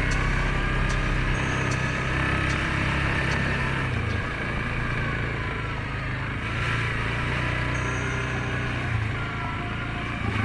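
Suzuki King Quad 750 ATV engine running under load through deep mud, held at fairly steady revs that dip a little about four seconds in and pick back up a couple of seconds later.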